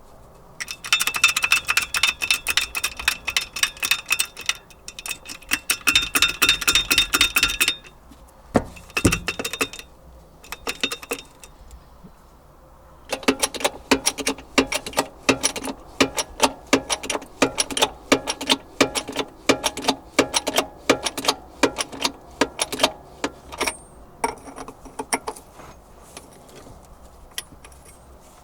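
Hammer blows ringing on a tractor implement's steel disc as its bent inside edge is beaten straight, several strikes a second. Two long runs of strikes come with a few scattered blows between them, and the ring is higher-pitched in the first run than in the second.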